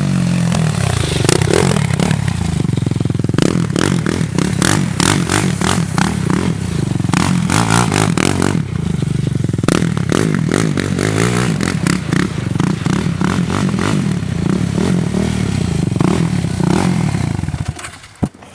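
An off-road vehicle's engine running steadily, with frequent scrapes and clattering knocks over it. The engine sound cuts off shortly before the end.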